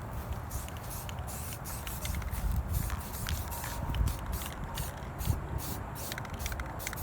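Aerosol spray-paint can hissing in many short, repeated bursts as paint is sprayed onto a mini bike.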